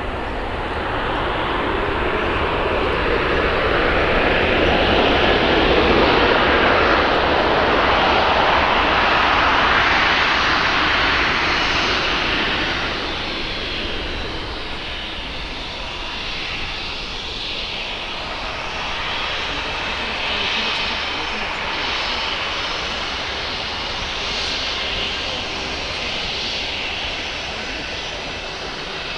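Aircraft engines passing close by: the noise swells to a peak about six to ten seconds in and drops in pitch as it goes past. It then settles into a steadier, fainter engine sound with a thin high whine.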